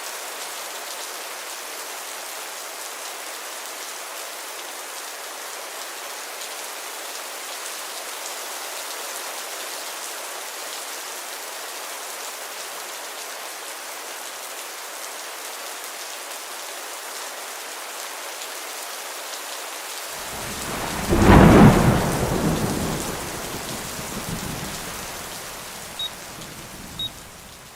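Heavy rain falling steadily, with a loud clap of thunder about twenty seconds in that rumbles away over the next few seconds. Two short high beeps sound near the end.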